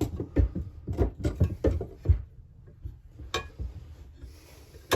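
Light knocks and clicks of metal tools and engine parts being handled on a bench: a quick run of them over the first two seconds, then a single sharp click about halfway and another at the end.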